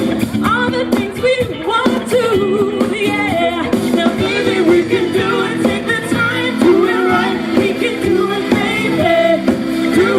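Live band playing a rock song, with a lead vocal singing over the instruments.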